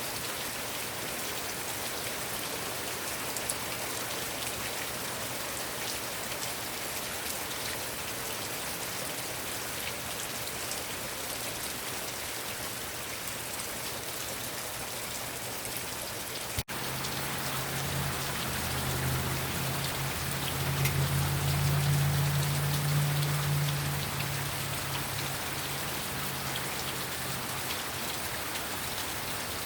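Heavy rain falling steadily on surfaces. About two thirds of the way through there is a brief dropout in the sound, after which a low hum swells for several seconds and fades again under the rain.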